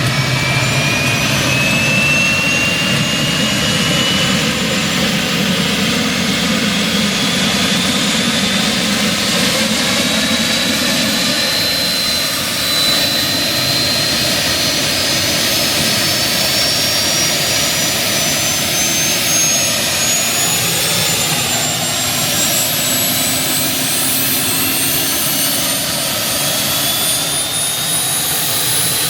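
Westland Lynx helicopter's Rolls-Royce Gem turboshaft engines spooling up during engine start, a high turbine whine climbing steadily in pitch over a deep steady rumble. Near the end a second rising whine joins in.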